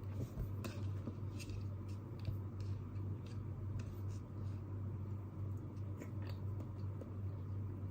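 Scattered light clicks and small taps, irregular and a few per second at most, over a steady low hum.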